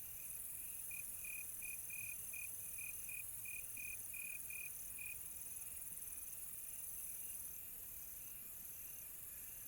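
Crickets chirping in a steady night chorus, with a high, even insect drone behind it. One nearer cricket chirps in short, rapid pulses and falls silent about halfway through.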